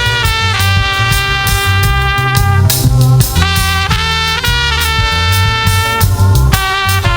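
Live gospel band playing an instrumental passage, with horns holding long notes over bass guitar and drum kit.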